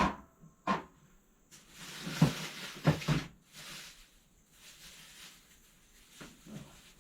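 Rummaging through clutter: a couple of sharp clicks, then rustling and scraping with a few knocks as things are handled and moved, fading to fainter handling noise.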